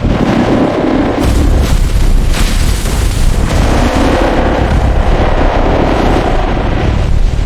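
Loud, continuous deep rumbling and booming, with music underneath.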